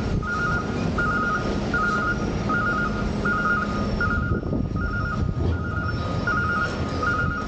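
Vehicle backup alarm beeping steadily, about four beeps every three seconds, over the low rumble of a running diesel engine.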